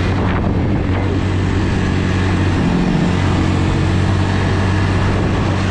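Four-wheeler (ATV) engine running steadily as it is ridden along, with a brief shift in its note about three seconds in.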